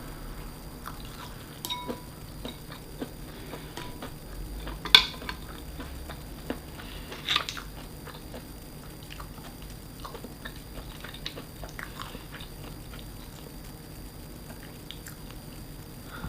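A person eating close to the microphone: chewing with many small clicks, and two sharper clinks about five and seven seconds in.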